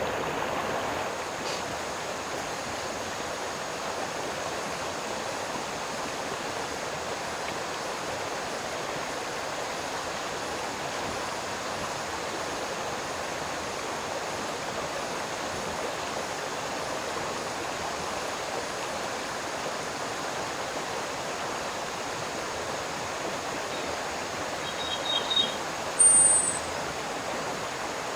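Steady rushing of flowing water, like a stream. A bird chirps briefly a couple of times near the end.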